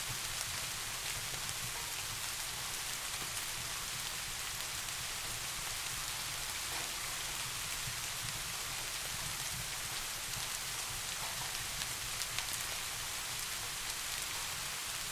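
Steady rain falling, an even hiss with faint scattered drop ticks and a constant low rumble underneath.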